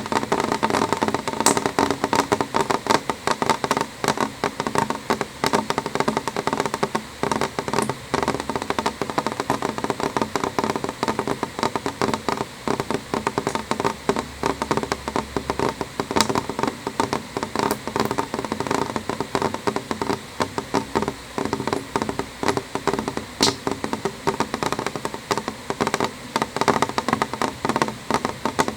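Rain falling on a window pane: a steady, dense run of drops tapping the glass, with a few sharper, louder ticks here and there.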